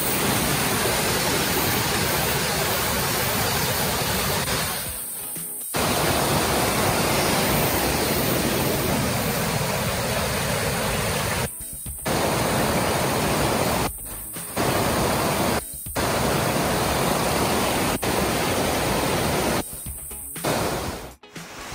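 Rushing stream water, a loud steady hiss, broken several times by brief drops where the footage cuts.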